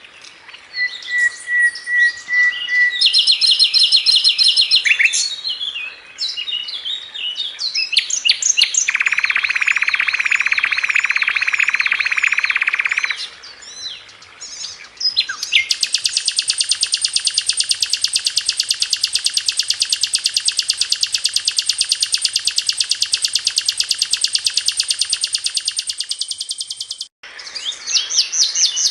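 Sikatan londo flycatcher song recording: a varied series of high chirps, short whistles and quick trills. About halfway through it gives way to one long, very rapid trill lasting about ten seconds, which cuts off abruptly.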